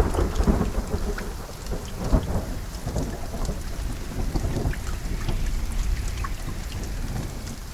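Steady rain with scattered drop ticks and rolling thunder. A loud thunderclap dies away over the first second, and the low rumble swells again about two and three seconds in before easing off.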